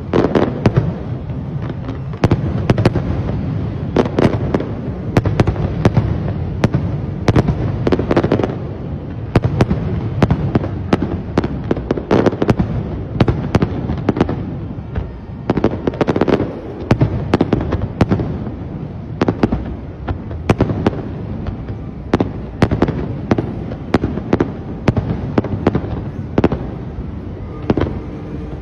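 Aerial firework shells bursting in rapid, irregular succession: several sharp bangs a second over a continuous low rumble.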